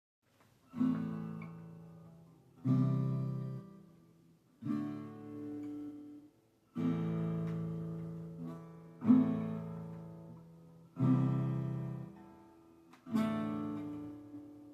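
Acoustic guitar intro: seven strummed chords, about two seconds apart, each left to ring out and fade before the next.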